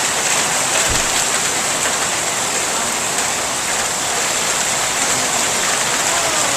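Marble-size hail pelting down in a steady, dense downpour, with one low thump about a second in.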